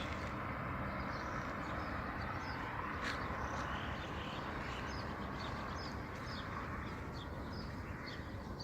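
Many small birds chirping and twittering in short, scattered calls over a steady rushing background noise.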